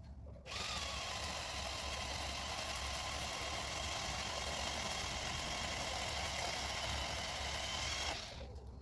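Powered pole saw running steadily at full speed for about seven and a half seconds, switched on about half a second in and cut off abruptly near the end.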